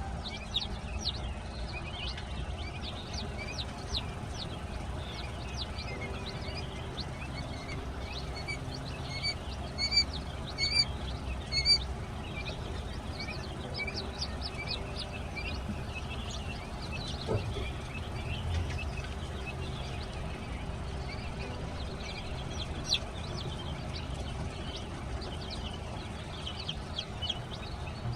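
A group of young chicks and quail chicks peeping continuously in short, high calls, with a few louder peeps about ten seconds in, over a steady low background hum.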